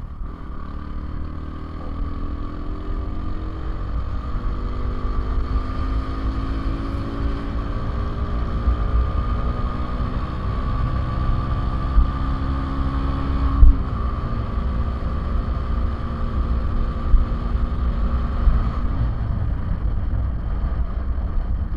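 Motorcycle engine running at road speed, its pitch creeping up and then dropping sharply about two-thirds of the way through as the throttle is eased or a gear changes, over heavy wind rumble on the microphone. A few short thumps come near the middle.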